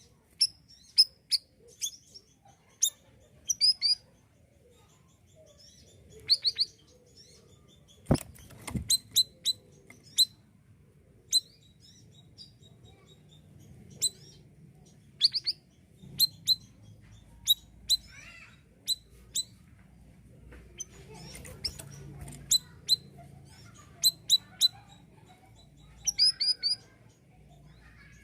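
Male sirisiri songbird calling in short, sharp, very high chirps, given singly and in quick clusters with pauses between. A sharp click sounds about eight seconds in.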